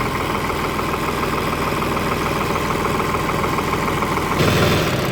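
Tractor diesel engine idling steadily just after being restarted on a newly refitted self-starter, growing briefly louder near the end.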